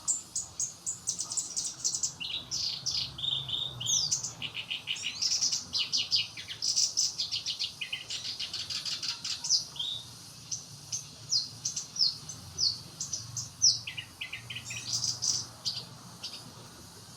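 Black-browed reed warbler singing: a fast, varied stream of chirps, churrs and trills that stops shortly before the end.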